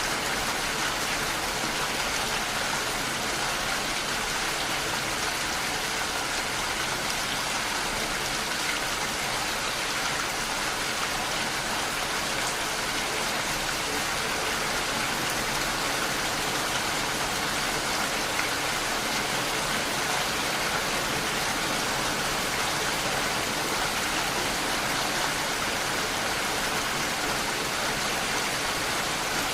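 Steady rain falling, an even hiss of many drops with no pauses or single loud strikes.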